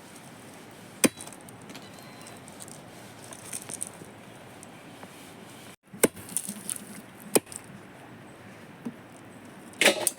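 A few sharp, short knocks or clicks over a faint steady background hiss: one about a second in, two more past the middle, and a quick cluster near the end.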